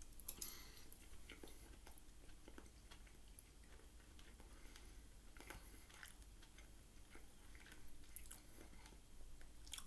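Faint close-up chewing of soft curry and rice: quiet wet mouth clicks and squishes at irregular moments, with no steady rhythm.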